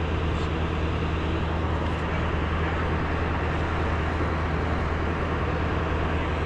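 Steady road-traffic rumble mixed with wind rush on the microphone from a moving electric bike. It is an even, unbroken noise with no single event standing out.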